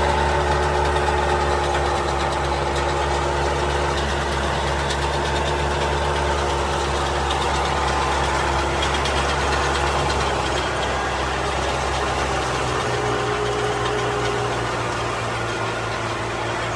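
Combine harvester's diesel engine running steadily under load, with the rattle and hum of its threshing machinery. It eases off a little about two-thirds of the way through.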